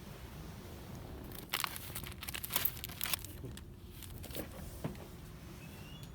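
Plastic packaging crinkling in a cluster of sharp bursts for about two seconds, starting a second and a half in, with a couple of fainter crackles after, over a steady low background hum.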